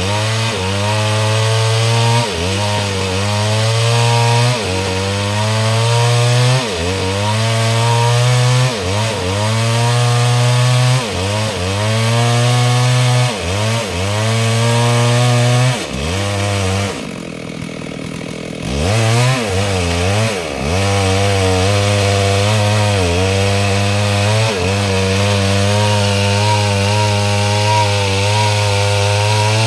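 STIHL MS 382 two-stroke chainsaw cutting mahogany under load. Its engine pitch sags and recovers about every two seconds as the chain bites. A little past halfway the revs drop briefly, then it runs steadier at high revs.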